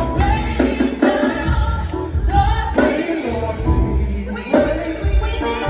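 Gospel music: a choir singing over a band with a heavy bass line.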